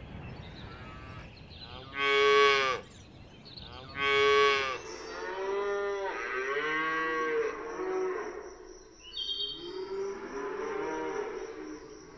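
Cows mooing: two loud, separate moos about two seconds apart, then several cows calling at once, overlapping and quieter.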